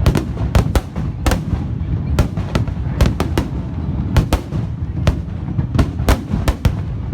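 Fireworks display: a rapid string of sharp bangs and cracks, about two or three a second, over a constant low rumble of distant bursts.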